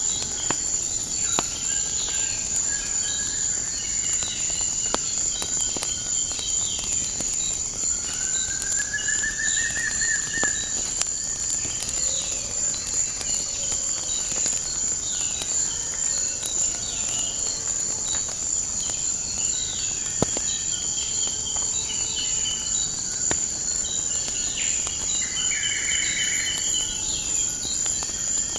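A steady, high-pitched insect chorus with birds chirping here and there, and scattered sharp pops and crackles of a wood fire.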